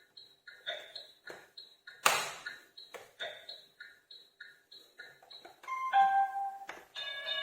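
Electronic sound effects from a toy school bus's speaker: a quick, repeating two-tone beeping, about three beeps a second, with a sudden loud noisy burst about two seconds in and a short run of electronic tune notes near the end.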